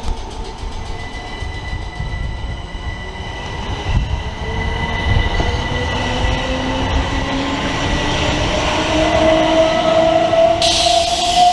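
Electric multiple unit's traction motors whining, several tones rising steadily in pitch and growing louder as the train accelerates. A sudden hiss cuts in near the end.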